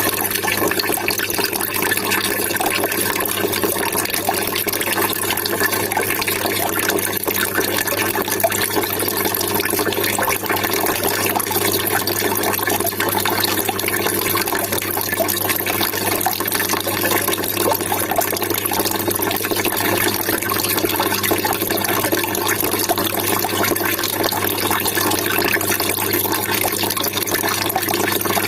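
Steady trickling, splashing water running without a break.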